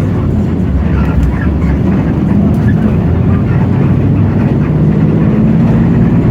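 Hino J08E-VN inline-six turbodiesel of a Hino RK8JRVA city bus running steadily under way, heard from inside the passenger cabin as a loud, low engine hum.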